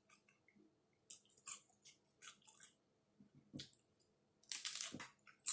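A person biting into and chewing a taco close to the microphone: irregular short crackly crunches, with a longer crunch near the end.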